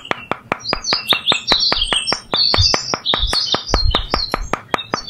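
Birds chirping continuously over a fast, even ticking of about six clicks a second, with a few soft low thumps.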